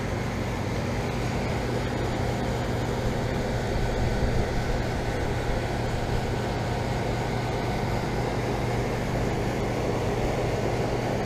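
Central air conditioner outdoor condensing unit running, its Copeland scroll compressor and condenser fan making a steady low hum with an even whoosh of moving air.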